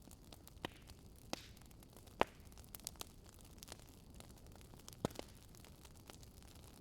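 Wood fire crackling: scattered, irregular sharp pops over a faint steady hiss, with the loudest pop a little over two seconds in and another near five seconds.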